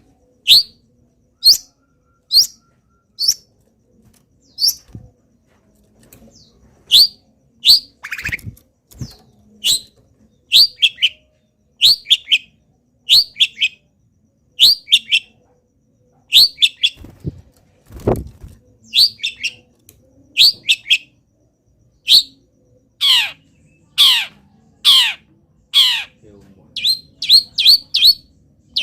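Cendet (long-tailed shrike) singing a long series of sharp, high, steeply falling calls, one or two a second, with a run of longer downward sweeps near the end. The calls are mimicry of wild birds' calls. A couple of low thumps sound in the middle.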